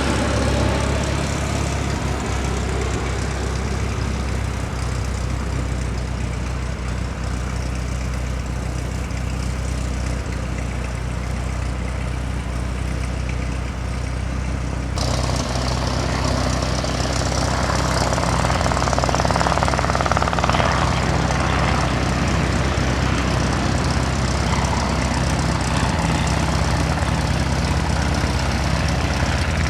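Aircraft engines running steadily at an airport: a constant low hum with noise over it. The sound changes abruptly about halfway through.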